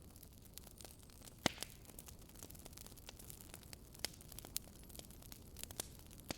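Wood fire burning in a fireplace: a soft steady hiss with irregular sharp crackles and pops, the loudest about a second and a half in and again around four seconds.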